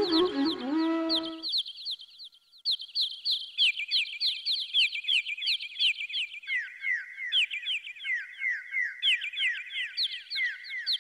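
Flute music fades out about a second and a half in, leaving birds chirping: a dense run of quick, short falling chirps from several birds at once, high-pitched and steady.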